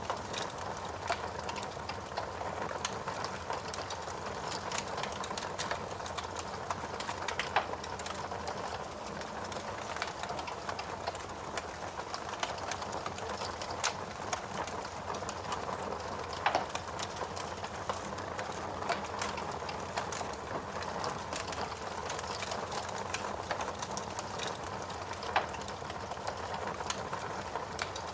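Wood fire crackling in a fireplace: a steady hiss of burning logs with constant small pops and snaps, and a few louder pops scattered through.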